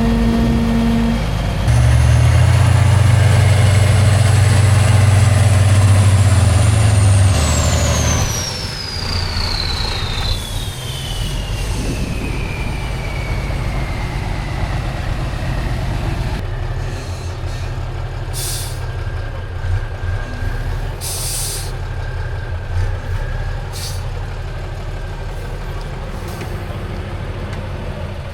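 Heavy off-road trial truck's diesel engine held at high revs, then let off about seven seconds in; a high turbo whine glides down over several seconds as the engine runs on at a lower speed, with a few short hisses later.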